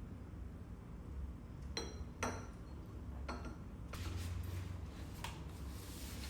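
Glass or ceramic dishes clinking as they are handled: three short ringing knocks about two and three seconds in, then a soft brushing noise, over a low steady hum.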